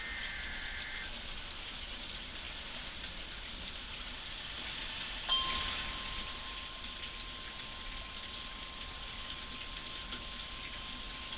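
Heavy rain falling steadily. A short high tone sounds in the first second; about five seconds in there is a sharp click, followed by a steady single tone that holds on.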